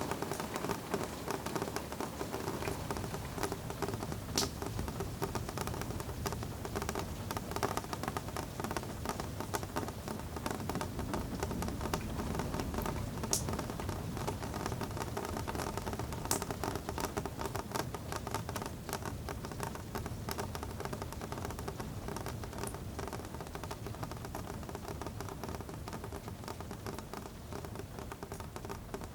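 Steady rain falling, a dense patter of drops tapping on a surface, with a few sharper ticks now and then.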